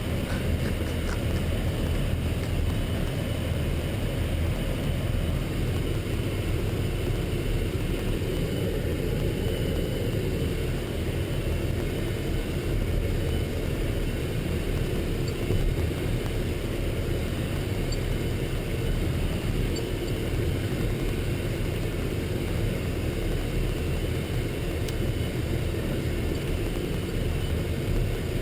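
Military truck driving, a steady low rumble of engine and road noise heard from on board the moving vehicle.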